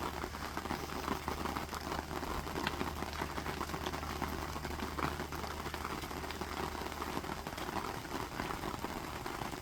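Steady rain falling, many small drops ticking irregularly over an even hiss.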